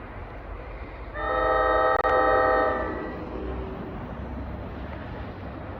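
Train horn sounding a chord of several steady tones for about a second and a half, with a brief break near the middle, over the steady low rumble of the train.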